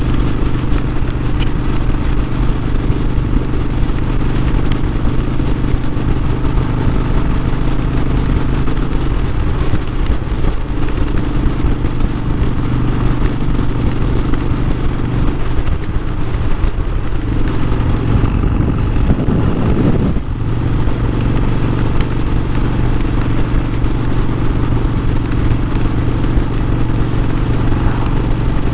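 Harley-Davidson Sportster 1200's air-cooled V-twin engine running steadily under way. About two-thirds of the way through its note wavers and dips briefly, then settles back to a steady drone.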